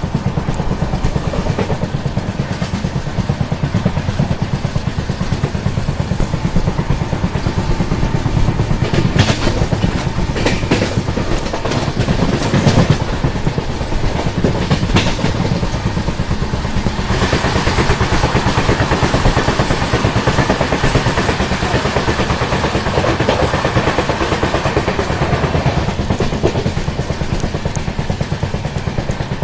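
Running noise of a moving passenger train heard from the coach door: a steady rumble with the wheels clattering over the rails. There are a few sharp clicks around ten to fifteen seconds in, and a brighter hissing stretch from about two-thirds of the way through.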